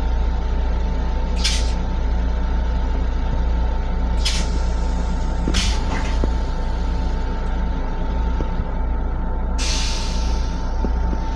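Steady low rumble and thin hum of an LIRR M7 electric railcar heard inside its restroom. Short hisses of released air cut in three times in the first six seconds, with a longer hiss near the end.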